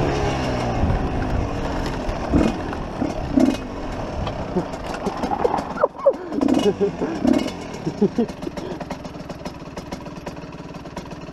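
Enduro dirt bike engine running under a helmet camera, dropping in pitch at the start as it slows, then running at low revs with rough wind and road noise on the microphone. Voices call out a few times in the middle.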